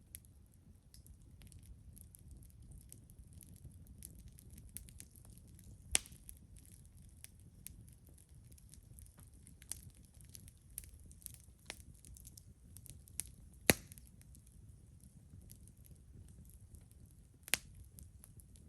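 Wood campfire crackling, with frequent small snaps and three louder pops, over a low steady rumble.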